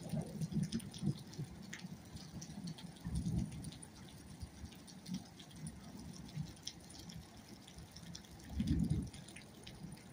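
Storm rain falling, with a steady hiss and many small scattered drips and patters. Two brief low rumbles stand out, about three seconds in and about nine seconds in.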